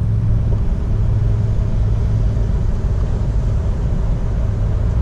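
Steady low engine hum with a rumble underneath, holding one pitch without change.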